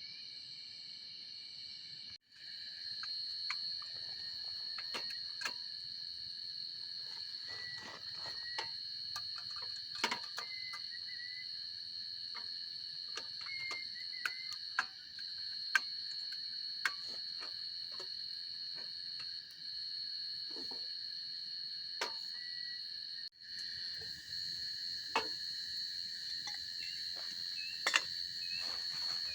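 A steady chorus of crickets, several pitches trilling together, over a campfire that crackles and pops at irregular moments. The chorus cuts out abruptly for an instant twice.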